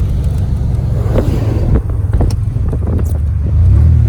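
Car or truck driving slowly on a snow-covered road, heard from inside the cabin: a steady low rumble of engine and tyres with a few short knocks and crunches, growing louder near the end.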